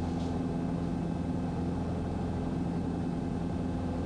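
Steady drone of a single-engine Cessna's piston engine and propeller in flight, heard in the cabin at an even pitch.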